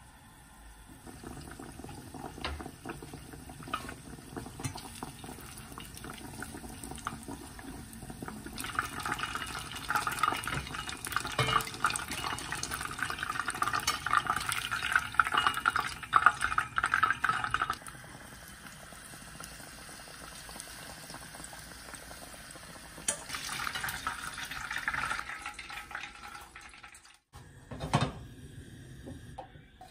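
Battered eggplant slices deep-frying in shallow oil, a dense sizzling crackle that swells much louder twice, about a third of the way in and again past the middle. Near the end the sizzle breaks off and there is a short louder sound.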